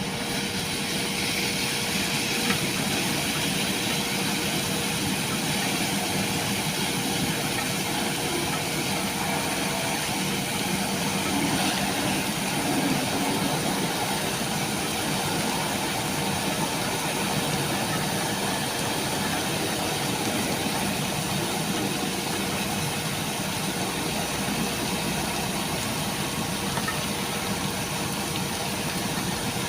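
A truck's engine running steadily, with a continuous hiss and a steady hum over it.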